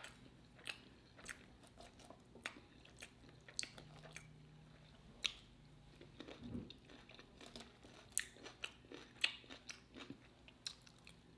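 Close-miked chewing of a mouthful of food, with many small, irregular wet mouth clicks.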